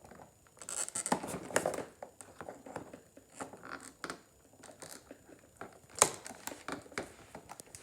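Toy packaging rustling and crinkling while scissors snip pieces free, with scattered small clicks and one sharp snap about six seconds in.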